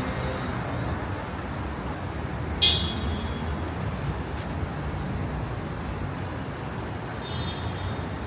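Steady street and traffic noise, with a sharp, short high-pitched beep about two and a half seconds in and another brief high beep near the end.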